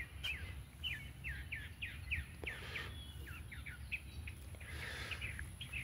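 A songbird singing a quick series of short, downward-slurred chirps, about three a second, over a low steady outdoor rumble.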